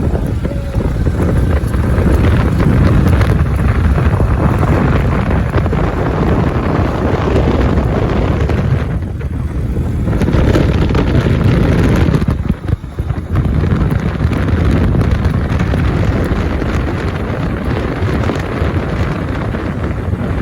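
Wind buffeting the microphone, a steady loud rumbling noise that dips briefly about twelve seconds in.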